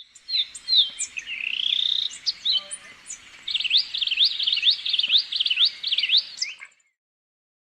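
Euphonia singing: a varied run of high chirps and a rising whistle, then a fast series of sharp upward-sweeping notes, about five a second, before it stops.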